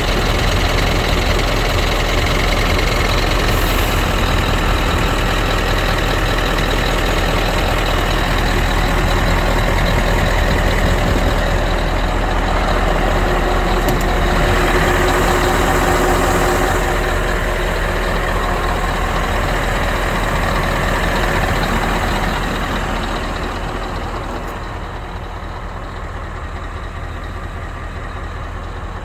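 Scania R560 truck's V8 diesel engine running steadily. About 23 seconds in it grows quieter and duller.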